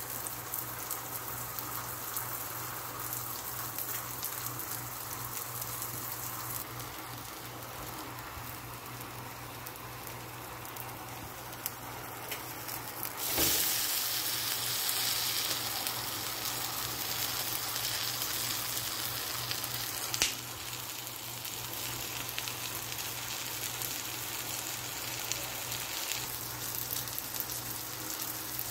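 An oats chilla frying in hot oil in a non-stick pan: a steady sizzle that gets louder about halfway through as a spatula presses the pancake. A sharp click stands out a little later.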